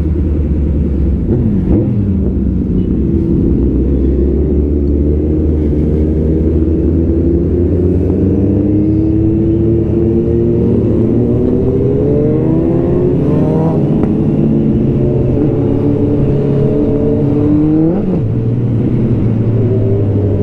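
Superbike engines with loud aftermarket exhausts running together, their pitch climbing and falling again and again as the riders rev and accelerate, over a steady low drone. The sharpest rises come about 13 and 18 seconds in.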